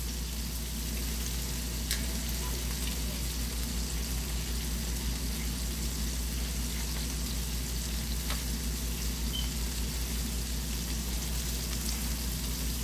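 Chicken wings deep-frying in a wok of hot oil, a steady sizzle, with two faint clicks, about two seconds and eight seconds in.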